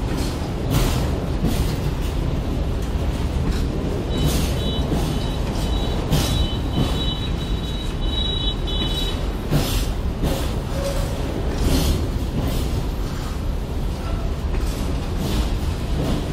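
Open freight wagons of a passing freight train rolling by: a steady rumble of wheels on rail, with clacks of the wheelsets over rail joints every second or so. A thin high-pitched squeal comes and goes for a few seconds in the middle.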